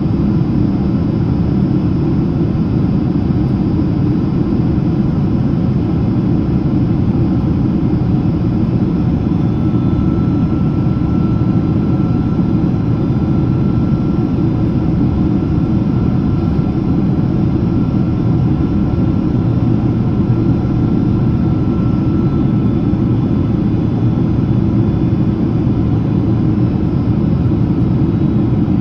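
Steady cabin noise of a Boeing 767-300ER jet airliner in descent, heard from inside the cabin: an even, low rumble of the engines and airflow. A faint thin whine sits over it from about ten seconds in until a little past twenty seconds.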